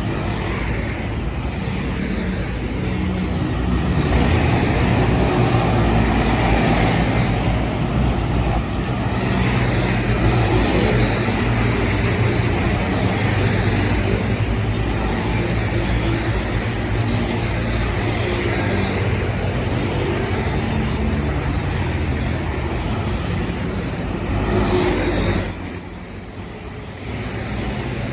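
Heavy diesel truck engine running amid road traffic, with tyre and road noise. The sound drops sharply about 25 seconds in, then picks up again.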